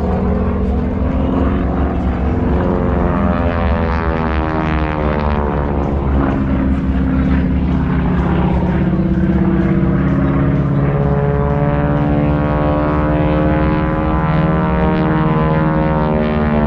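Propeller airplane engine running loudly as the plane flies past, its note sliding down in pitch and back up several times as it passes and turns.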